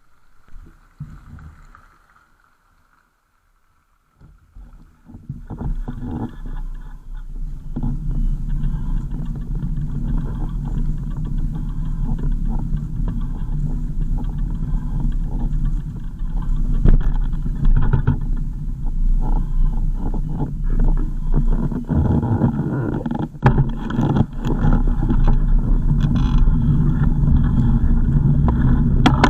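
Car on the move: steady low engine and road rumble that comes in about five seconds in after a brief quiet and then holds.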